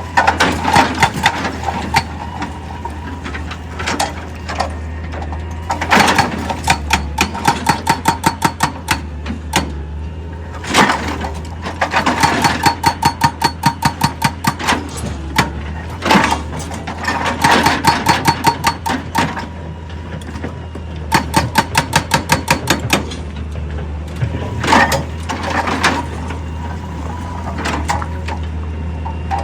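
Heavy machinery engine running steadily, broken by repeated runs of rapid metallic strikes with a ring, about five a second, each run lasting a few seconds.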